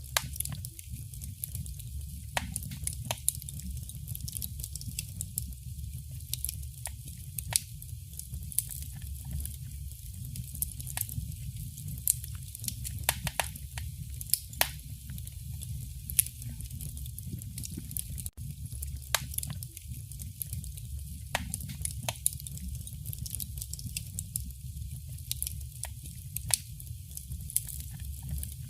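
Fire crackling in a fireplace: irregular sharp pops and snaps, several a second, over a steady low rumble of flame.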